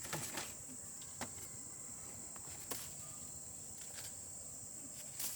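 Steady high-pitched chorus of insects such as crickets, with a few faint clicks or taps scattered through it.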